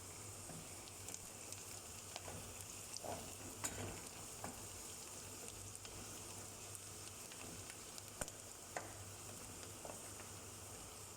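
Food frying in a pan for chicken adobo: a steady sizzle with scattered sharp pops and clicks.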